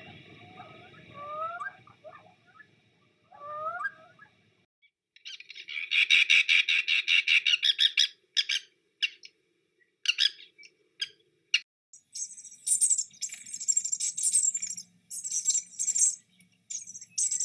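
A run of recorded bird calls, changing every few seconds. First come short rising whistled notes. A loud rapid trill starts about five seconds in and breaks into separate chirps, and high-pitched chirping takes over near the end.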